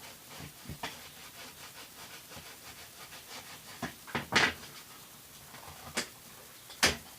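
Plastic container being cut by hand: a few sharp clicks and snaps, a longer crackle about midway, and the loudest snap near the end.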